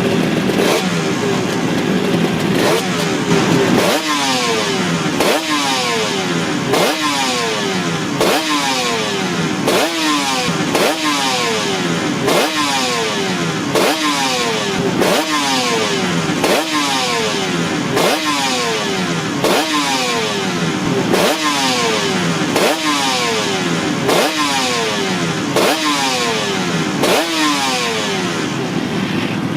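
Suzuki RG500 Gamma's two-stroke square-four engine, through Nikkon expansion-chamber exhausts, running steadily. A few seconds in, the throttle starts being blipped over and over, about once every second and a half: each rev jumps up sharply and falls away again. Near the end it settles back to a steady idle.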